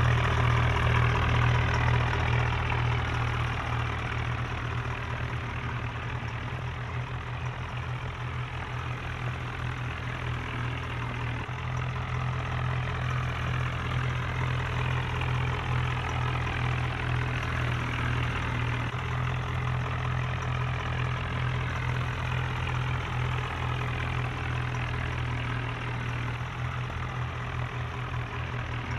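Tractor diesel engine running steadily, a continuous low engine drone that is a little louder at the start.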